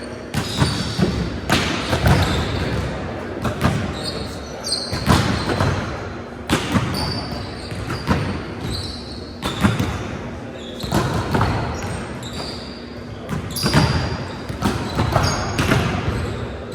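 Indoor volleyball play in an echoing gym: a ball being hit and bouncing, with repeated sharp smacks about every second or so, short high squeaks of sneakers on the court, and players' voices.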